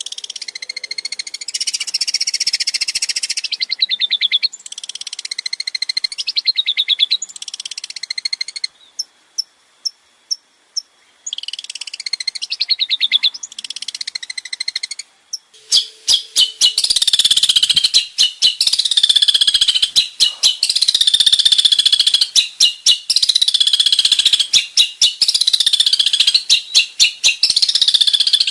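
Long-tailed shrike (cendet) singing a fast, varied chattering song of rapidly repeated high notes. A short pause with a few single ticks comes about nine seconds in, and from about sixteen seconds the chatter becomes denser and continuous.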